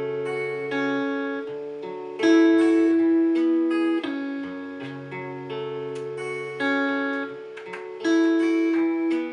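Acoustic guitar strumming sustained chords, changing every second or two, with no singing yet.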